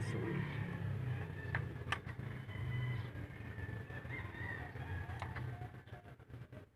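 A rooster crowing faintly in the background over a low steady hum, with a few light clicks.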